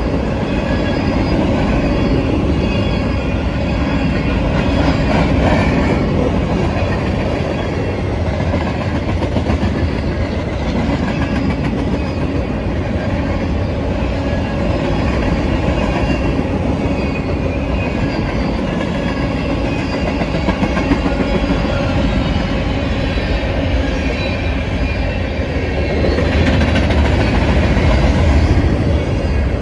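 Freight train cars rolling past, with steel wheels on the rails and a steady clickety-clack as trucks pass over the rail joints, a little louder near the end.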